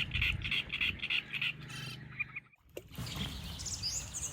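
Birds calling outdoors: a fast run of repeated short notes, about five a second, then after a brief drop about two and a half seconds in, a few higher, sliding chirps.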